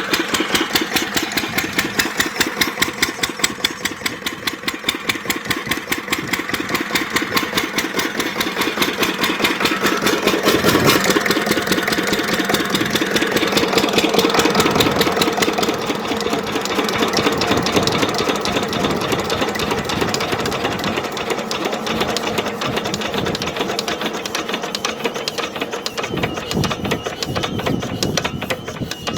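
8 HP diesel engine running steadily at a constant speed, driving an irrigation pump, with a rapid, even firing beat.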